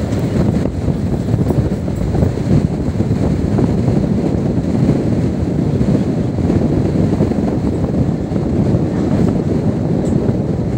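Ratnachal Express passenger coaches running along the track at speed, a steady dense noise with heavy wind buffeting the microphone held outside the coach.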